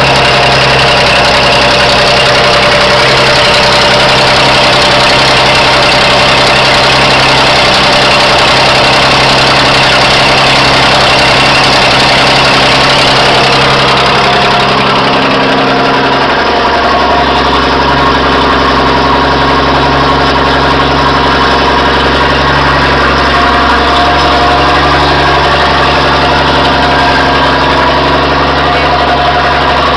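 M135CDN military truck engine idling steadily; about halfway through its note shifts lower and the high hiss fades as the idle settles.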